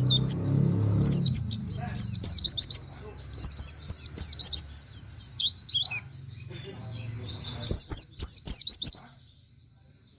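White-eye (pleci) singing in rapid bursts of quick, high, downward-sweeping chirps, each burst a second or two long with short pauses between. It is the fast 'nembak' song with 'wit wit' and canary-like phrases, kept as master song for teaching other songbirds.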